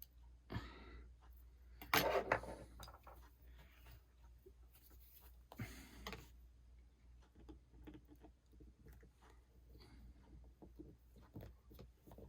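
Small handling noises from phone repair work: scattered light clicks and brief rustling scrapes of small parts and tools being moved about, the loudest about two seconds in and another around six seconds.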